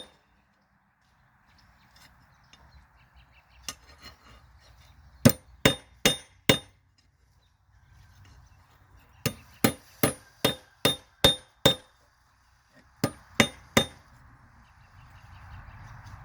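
Hammer blows on a railroad spike being forged, each strike ringing, in runs of several quick blows with pauses between them.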